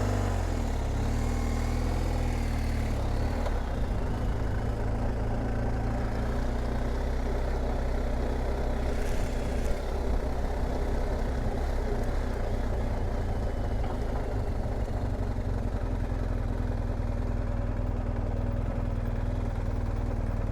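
BMW R1250 GS Adventure's boxer-twin engine running with a steady low note and no revving.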